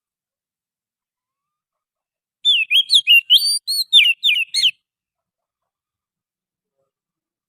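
Oriental magpie-robin (kacer) singing one quick phrase of varied, rapidly changing whistled notes, lasting about two seconds and starting about two and a half seconds in. It is a wild-type song used as a lure call to attract magpie-robins.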